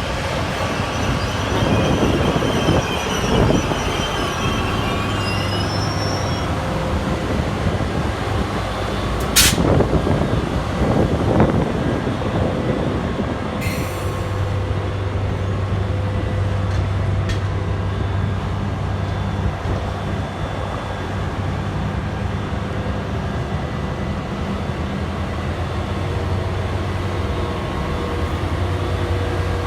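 NJ Transit train hauled by an ALP-45DP dual-mode locomotive running on diesel: a steady engine hum with wheel and rail noise, and one brief sharp squeak about nine seconds in.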